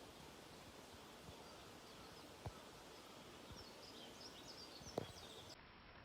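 Near-quiet forest ambience with faint high bird chirps, broken by two sharp taps, one about halfway through and a louder one near the end.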